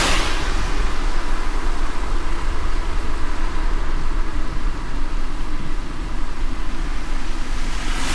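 A car driving in light rain: steady low road and engine rumble under an even hiss of rain.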